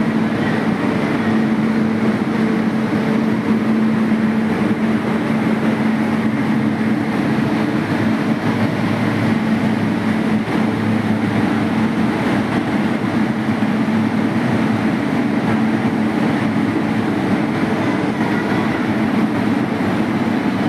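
Train running: a steady rumble with a constant low hum, without rhythmic clacking.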